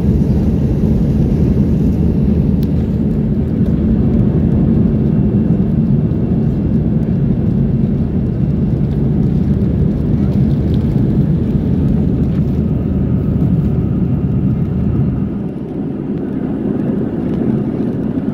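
Airbus A319 cabin noise: the CFM56 jet engines running at high thrust under a heavy, steady rumble. The deepest part of the rumble drops away about 15 seconds in.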